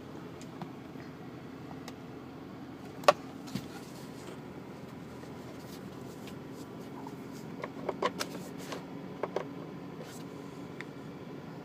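2003 Toyota Camry engine idling steadily in its warm-up after a cold start from below freezing. A few sharp clicks sound over it, the loudest about three seconds in and a small cluster around eight to nine seconds.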